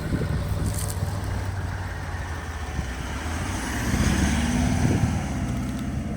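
Four-wheel-drive SUV engine running under load on an off-road climb, its revs rising about four seconds in.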